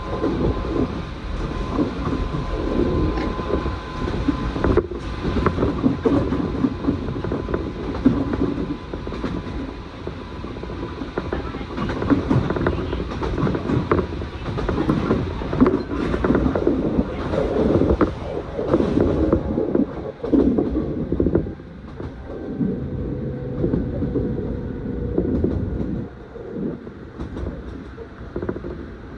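Electric train running between stations, heard from inside the passenger car: a steady rumble of wheels on rails and running gear that swells and eases, with a faint steady whine.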